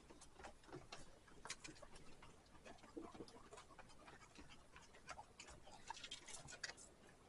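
Faint, irregular footsteps of people walking down a long outdoor staircase: scattered taps and clicks at no steady rhythm.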